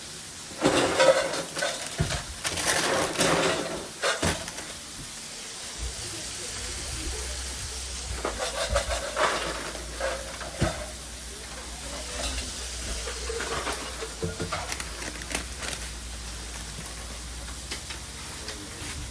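Food sizzling as it fries, with clattering and scraping of metal utensils and pans, busiest in the first few seconds. A steady low hum comes in about six seconds in.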